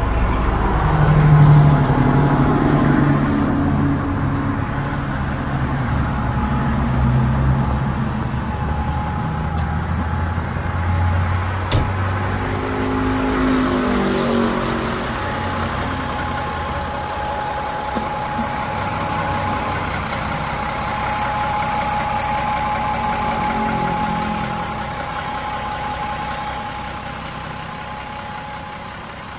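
Caterpillar 962G wheel loader's diesel engine running, its pitch rising and falling several times as the engine speed changes. A steady high whine runs along with it through the later part.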